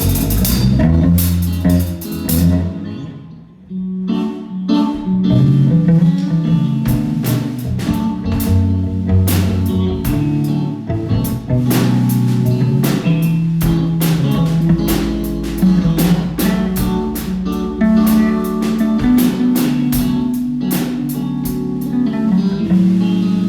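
A rock band playing live on guitar and drum kit, with a short drop in the playing about three seconds in before the full band comes back in.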